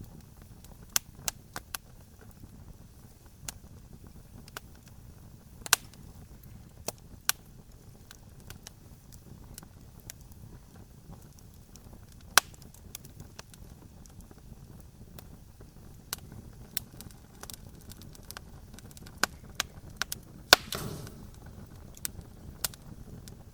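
Wood campfire crackling: sharp, irregular pops and snaps over a low steady rumble. A cluster of louder pops comes about twenty seconds in, one followed by a brief hiss.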